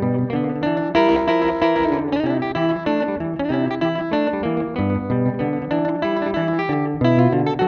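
Electric guitar playing a quick run of picked single notes through a delay pedal, the echoes of each note overlapping the next.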